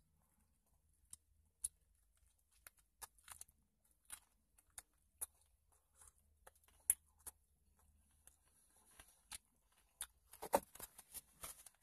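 Faint, scattered moist clicks and ticks of a person chewing a big bite of sandwich with dentures, followed by a louder brief cluster of noise near the end.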